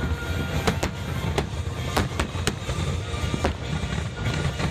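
Aerial fireworks bursting in an irregular series of sharp bangs over a constant low rumble, the bangs coming thicker near the end, with music playing along.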